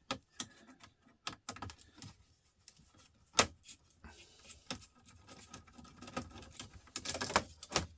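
Small plastic and metal laptop parts being handled and pried during disassembly, likely the cooling fan being taken out: irregular clicks and light clatters, the sharpest about three and a half seconds in and a quick flurry near the end.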